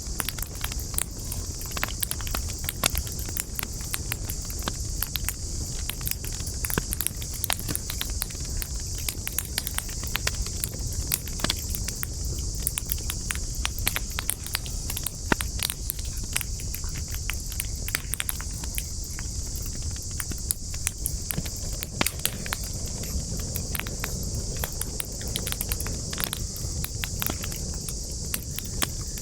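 Wood campfire crackling: a dense, irregular run of sharp pops and snaps from burning wood. Under it runs a steady low rumble of flames and a constant high hiss.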